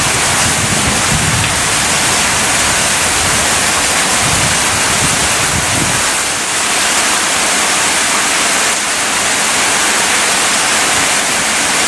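Heavy rain pouring down in a steady loud hiss. Low rumbles of thunder come through about a second in and again around four to six seconds in.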